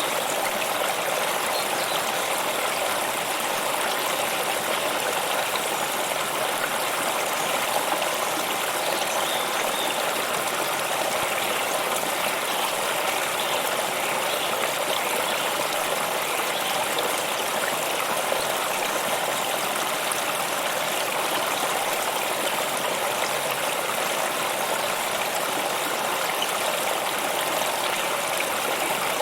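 Stream water flowing, a steady, even rushing and trickling that does not change.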